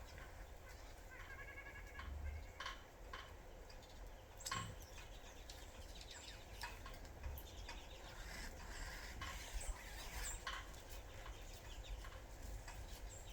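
Small birds at a sunflower-seed feeder giving short, scattered chirps and calls, with a quick run of repeated notes about a second in. A low rumble runs underneath.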